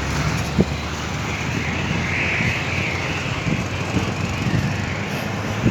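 Aircraft engine noise: a steady rushing drone that swells about two seconds in and then eases.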